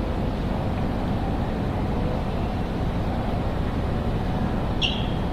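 Steady low rumble of a large railway station hall's ambience, with a brief high-pitched squeak near the end.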